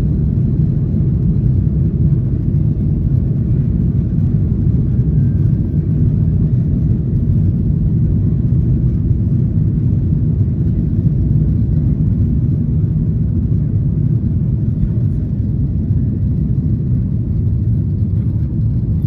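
Steady low rumble of a Boeing 737-800's CFM56 jet engines and airflow, heard from inside the passenger cabin, holding even throughout with no spool-up or change in pitch.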